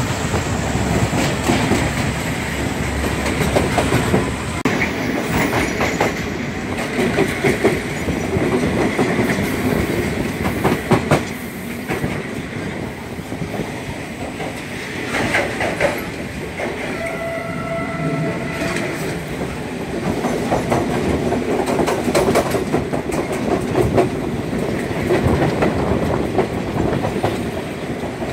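Passenger train running, heard from inside a carriage at an open window: a steady rumble with wheels clacking over rail joints. About two-thirds of the way through, a horn sounds for about two seconds.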